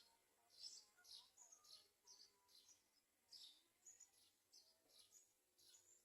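Faint, high bird chirps repeating about twice a second, each a short falling note, with fainter whistled notes from other birds behind them.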